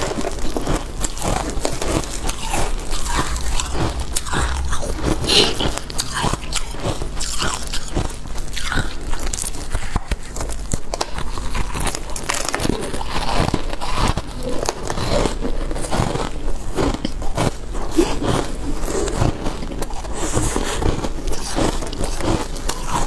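A person biting and chewing freezer frost close to the microphone: a steady run of irregular, crisp crunches as the ice is bitten and ground between the teeth.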